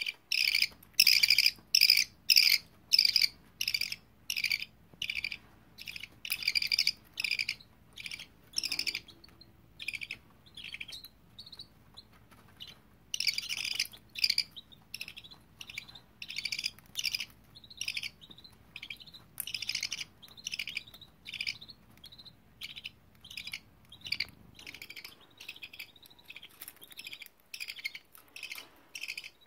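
Budgerigars chirping: a steady run of short, high chirps, about two a second, which turn shorter and a little quicker partway through.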